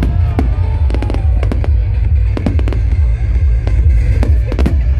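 Fireworks going off: a rapid, irregular series of sharp bangs and cracks, several a second, with music playing throughout.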